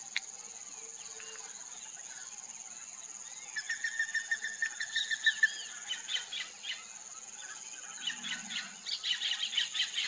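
A steady high insect drone runs throughout. From about three and a half seconds in, a bird gives a quick run of repeated notes, followed by faster chattering calls that grow busier near the end.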